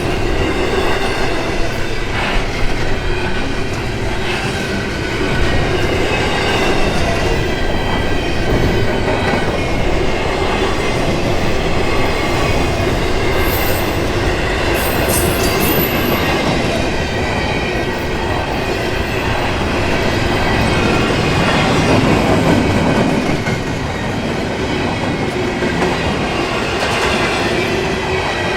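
Freight train of intermodal container cars rolling steadily past, wheels clattering on the rails, with a faint high squeal from the wheels running throughout.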